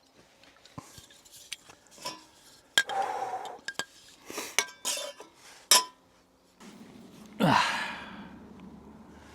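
Metal camping stove and cookware clinking and knocking as they are handled and set up, with short ringing after several knocks. About seven and a half seconds in comes a louder sweeping scrape.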